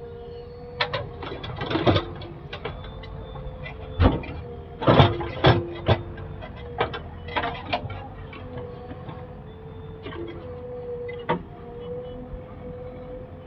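Diesel engine of heavy machinery running steadily, with a string of sharp knocks and clanks, the loudest bunched a third of the way in.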